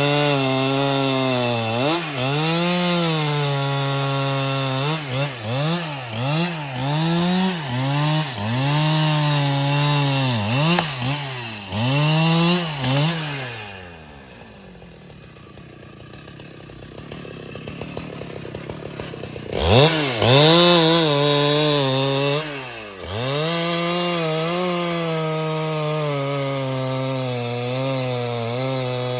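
Husqvarna 395XP two-stroke chainsaw cutting wood, its engine pitch repeatedly dipping and recovering as the chain loads up in the cut. About halfway through the engine drops away for about five seconds, then comes back sharply at full throttle and runs on steadily.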